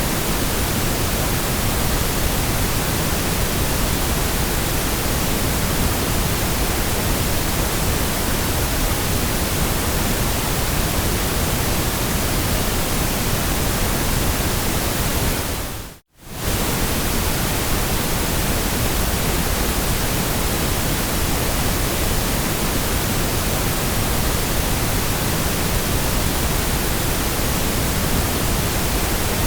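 Steady, even hiss of a white-noise sleep track, cutting out for a split second a little past halfway before resuming unchanged.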